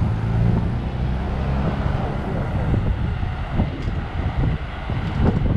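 A motor vehicle's engine rumbling, low and steady for the first second and a half before it fades, leaving a rough rumble with wind buffeting the microphone.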